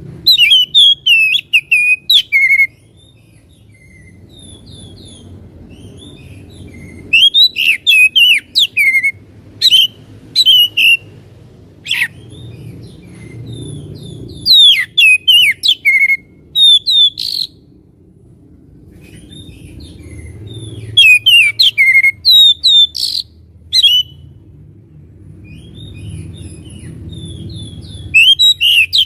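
Oriental magpie-robin (kacer) singing loud, varied whistled phrases in bursts of one to three seconds, with short pauses between them. It is a lure song ('pancingan') meant to set other kacer singing.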